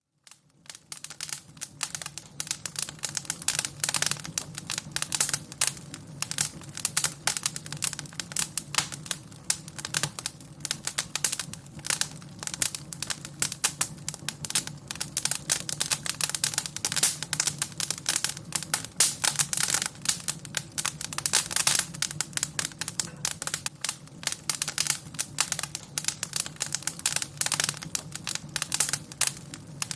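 Fire in a fireplace crackling: dense, irregular snaps and pops over a steady low rumble.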